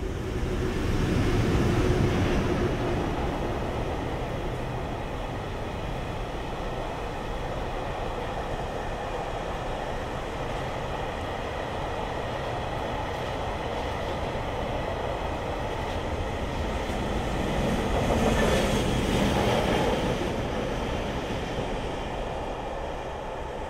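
JR Freight train hauled by an EH200 electric locomotive rolling through a station: a steady rumble of wheels on the rails. It is louder in the first couple of seconds and swells again about eighteen seconds in.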